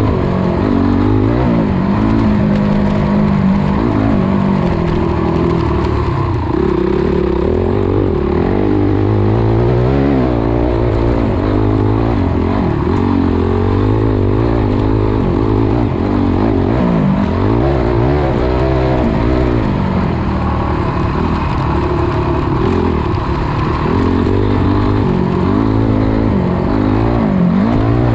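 Dirt bike engine heard from on board, revving up and down as it rides a dirt track; its pitch climbs and falls over and over, with short drops when the throttle is rolled off.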